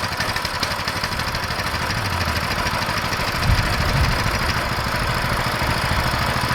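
Minibike's small four-stroke engine idling steadily after being pull-started, with a rapid even run of firing pulses and one brief louder low bump about halfway through.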